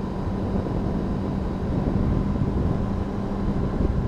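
Honda CBR600RR's inline-four engine running at a steady cruise, with a constant pitch and a rush of wind noise.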